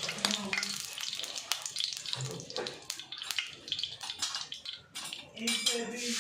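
Water running and splashing, with quick clicks and knocks of things being handled in it.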